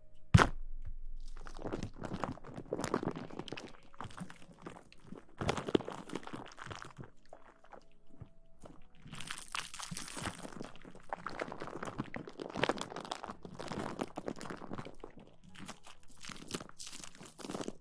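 Close-miked ASMR rustling: irregular crinkling and scratching noises, with a sharp click near the start and a brighter, hissier stretch about nine seconds in.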